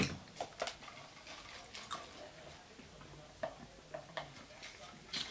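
Close-miked eating sounds: scattered wet mouth clicks and smacks while chewing a fried chicken finger dipped in Cane's sauce.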